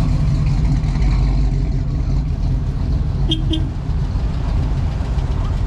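Low, steady rumble of car engines idling and rolling past in slow traffic, with two short high beeps a little past halfway.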